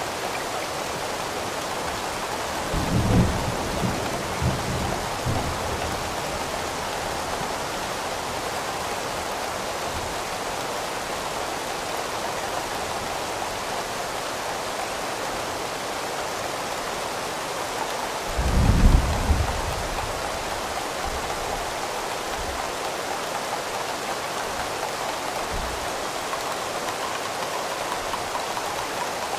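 Steady, even rain, with two low rumbles of thunder: one about three seconds in that rolls on for a couple of seconds, and a louder, shorter one near the middle.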